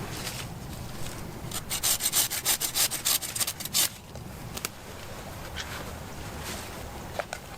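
A run of quick back-and-forth rasping strokes on wood, about five a second, for about two seconds in the middle, over a steady low rumble.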